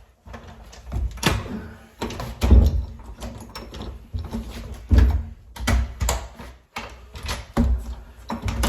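A crawl-space door being opened and handled, with a run of irregular heavy thuds and sharp knocks.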